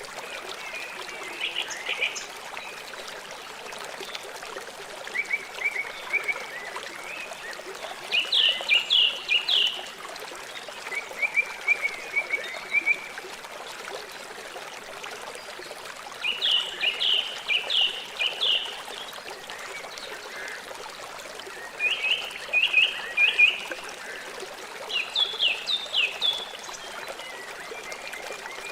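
River water running steadily, with a bird calling in short bursts of quick, falling chirps every few seconds.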